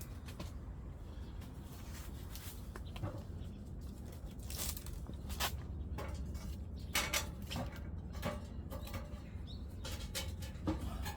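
Irregular sharp clicks and knocks, a dozen or so, over a low steady hum.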